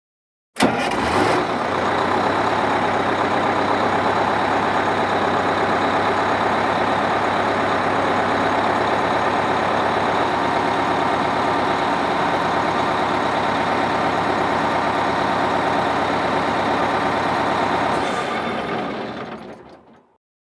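School bus engine running steadily. It starts abruptly and fades out over the last two seconds.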